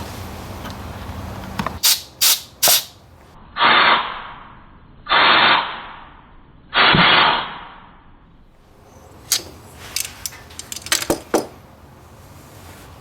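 Three short hissing sprays, each about half a second, with three sharp clicks before them and a scatter of lighter clicks and taps afterwards.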